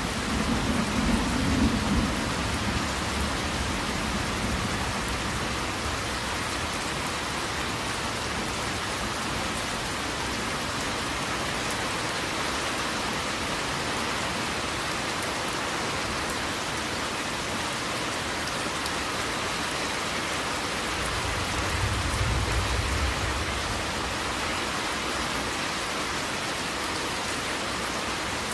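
Steady heavy rain falling, with a low rumble of thunder fading out in the first few seconds and another soft roll of thunder about three-quarters of the way through.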